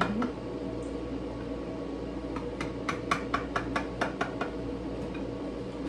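A quick run of light clicks and taps, about a dozen, between about two and a half and four seconds in, over a steady background hum.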